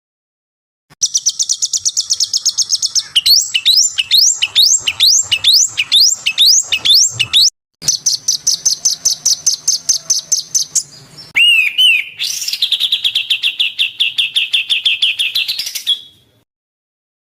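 Recorded songbird song in cut-together sections: a fast high trill, then a run of rising whistled sweeps about two a second, another fast trill, a few lower notes, and a last long trill. Each section stops abruptly into silence.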